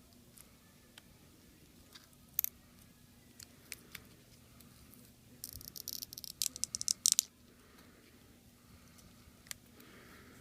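Small hand tools clicking and scraping against the parts of an HTC One M7 smartphone as it is taken apart: scattered sharp clicks, with a burst of rapid scratchy clicks about five to seven seconds in.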